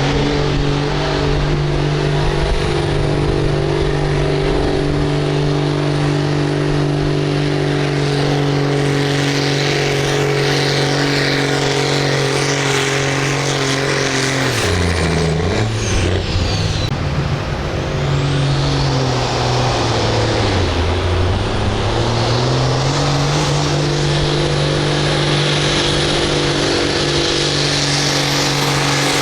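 Farm tractor engine running hard under load during a tractor pull. It holds a steady pitch, sags in speed about halfway through and again about two-thirds through as it is pulled down, then climbs back up.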